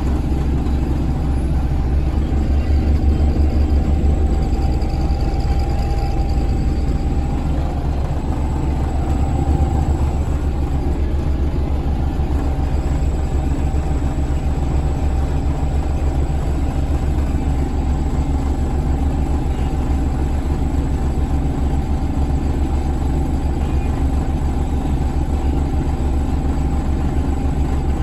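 Scania DC9 230 diesel engine of a Scania L94UB bus, a five-cylinder nine-litre unit, running with a steady low drone, a little louder in the first few seconds.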